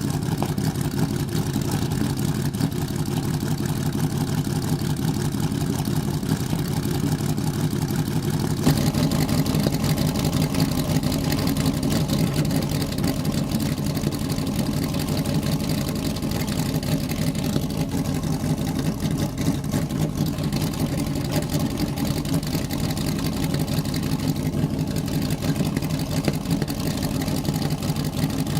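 Vintage race car engine running steadily, with no clear revving; the sound changes abruptly about nine seconds in.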